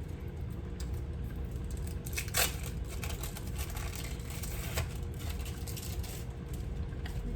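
Plastic wrappers crinkling and rustling as cheese slices are unwrapped and handled, with a few sharper clicks and crackles, over a steady low hum.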